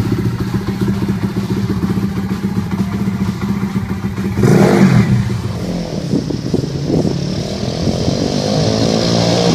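Dirt bike engine running at a steady speed, then revving hard about halfway through with a sudden loud burst. After that the engine pitch swings up and down and climbs near the end.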